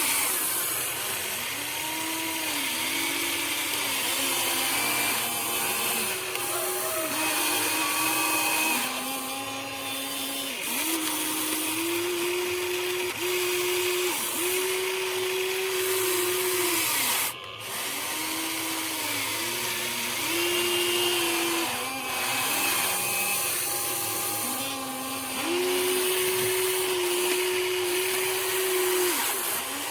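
Electric motors of a Huina 1593 RC excavator whining as the machine works, the pitch stepping up and down every second or two as the motors load and unload, with a short dip about halfway through.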